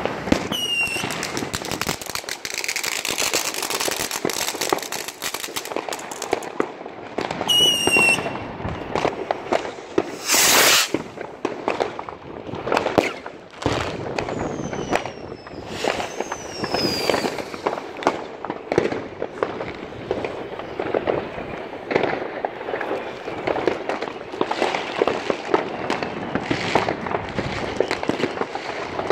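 Fireworks and firecrackers going off all around: a dense, continuous run of bangs and crackles, with several falling whistles and one loud rushing hiss lasting about a second near the middle.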